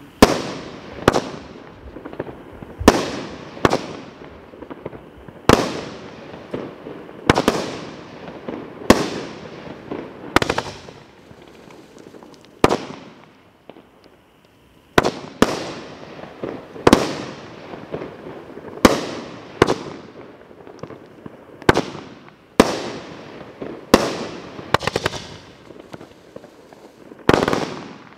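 Gunsmoke multi-shot fireworks cake firing, about two dozen sharp bangs at irregular intervals of roughly a second, each trailing off, with a short lull near the middle.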